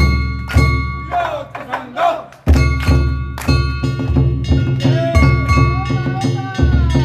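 Danjiri festival music: a large taiko drum struck about twice a second over ringing kane gongs, with voices calling along, and a brief lull a little after two seconds in.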